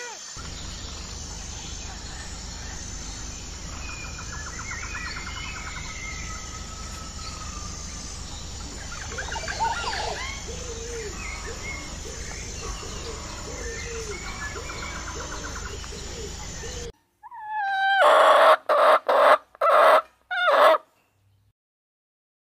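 Chickens and small birds calling over steady farmyard background noise, then after a cut a series of about four loud, harsh calls from domestic fowl near the end.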